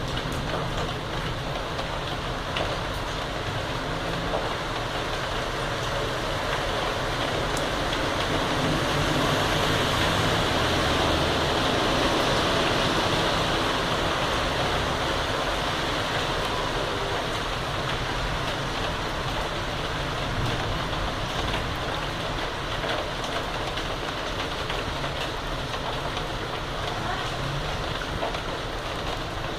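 Heavy rain pouring down steadily. The hiss swells louder for several seconds around the middle.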